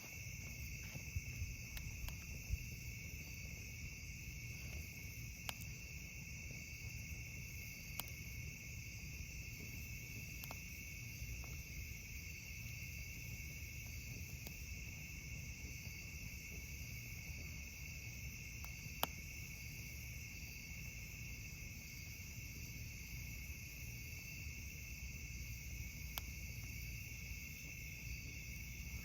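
Steady chorus of crickets chirring at night, with a low rumble underneath. A handful of sharp pops from a campfire come at scattered moments, the loudest about two-thirds of the way through.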